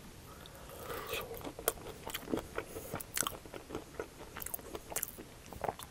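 Close-miked bite into a crispy breadcrumb-crusted fried mashed-potato cake, then crunchy chewing: irregular sharp crackles of the crust, loudest about a second and a half and three seconds in.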